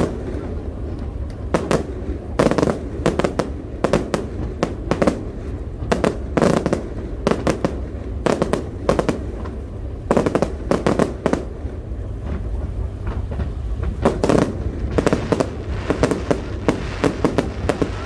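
Fireworks display going off in a rapid, irregular string of sharp bangs and crackles, several a second at times, over a constant low rumble.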